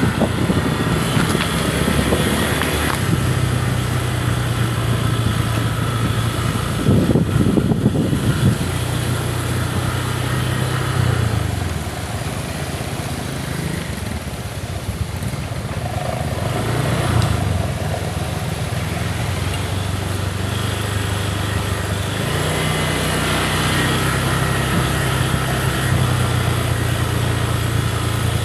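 Small motorcycle engine running while riding, a steady hum that steps up and down in pitch several times as the speed changes.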